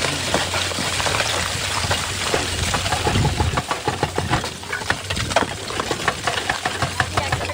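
Excavator engine running with a steady low hum, under a dense, irregular crackle of clicks and rattles.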